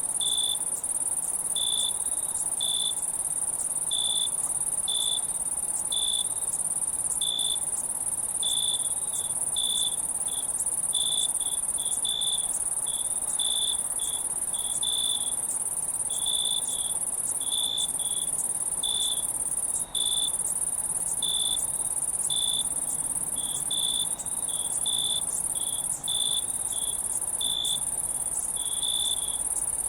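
Insects chirping: a steady high-pitched buzz, with short chirps at one pitch repeating unevenly about twice a second.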